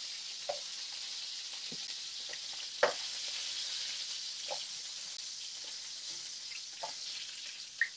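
Beef tenderloin pieces sizzling steadily in hot oil in a pan as they sear. Metal tongs give a few light clicks as seared pieces are lifted out onto a plate.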